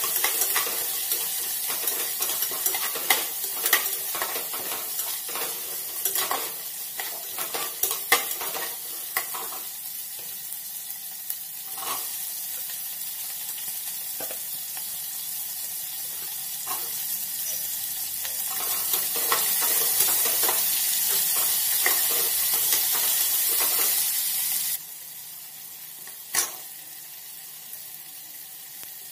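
Chopped onion, garlic and chillies sizzling in hot oil in an aluminium pressure cooker, stirred with a metal spatula that scrapes and clicks against the pot, with many clicks in the first ten seconds or so. The sizzle drops off suddenly near the end, and one knock follows.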